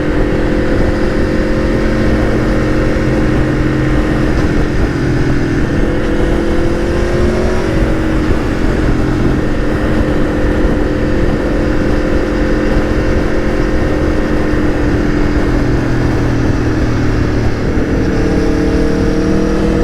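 Aprilia Tuono V4 1100's V4 engine running at a steady cruise, its loud exhaust note drifting slowly up and down in pitch, with wind rushing over the rider.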